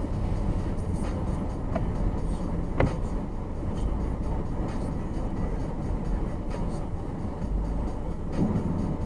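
Steady road and engine rumble of a moving car, with one sharp click about three seconds in.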